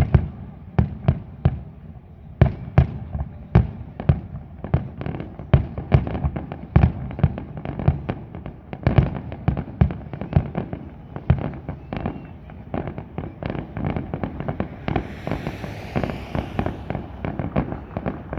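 Fireworks display: a rapid series of sharp bangs from bursting shells, coming faster and closer together in the second half, with a hissing crackle about three-quarters of the way through.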